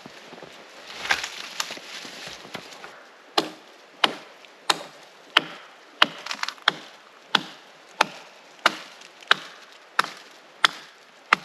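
Firewood being chopped: a steady series of sharp wooden strikes, about three every two seconds, starting a few seconds in after some rustling.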